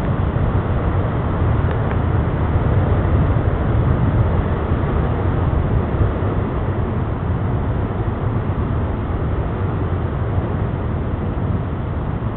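Hurricane-force wind blowing hard and without a break, a loud deep rumble with no let-up.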